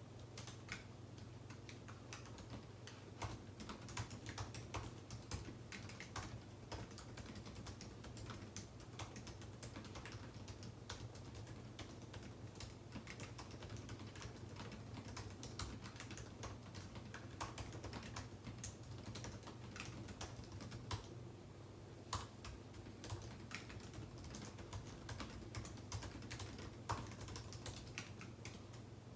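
Continuous typing on a computer keyboard: irregular key clicks, several a second, with brief pauses, over a steady low hum.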